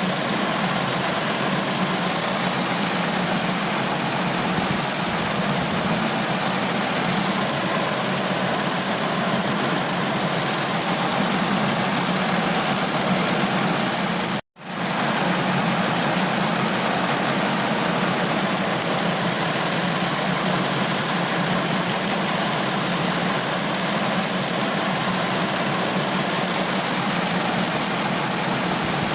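Steady rain falling on a car roof, an even hiss and patter. It cuts out completely for a split second about halfway through.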